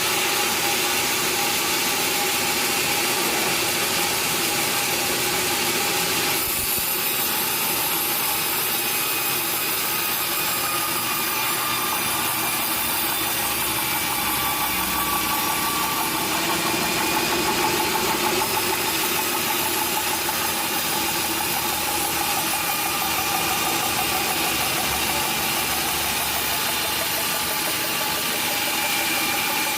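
Sawmill machinery running steadily: a loud, dense mechanical noise with a slight shift in tone about six seconds in.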